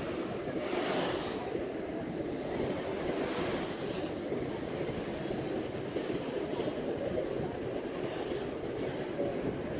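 Steady noise of Pacific Ocean surf breaking on the shore, with wind on the microphone and a few brief swells.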